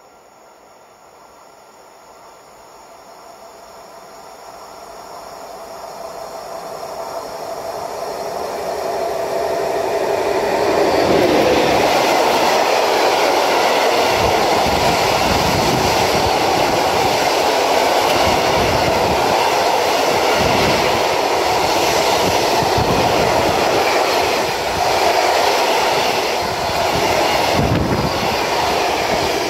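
Freight train of tank wagons running through at speed. It grows steadily louder for about ten seconds as it approaches, then the wagons' wheels on the rails make a loud, steady noise with repeated clacks as the tank cars pass close by.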